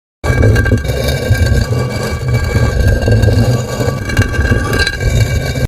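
Street traffic: motor vehicle engines running with a steady low rumble, starting abruptly and cutting off suddenly at the end.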